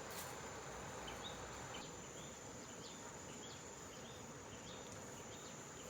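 Insects: a steady high-pitched drone, joined from about a second in by a short chirp repeating about twice a second.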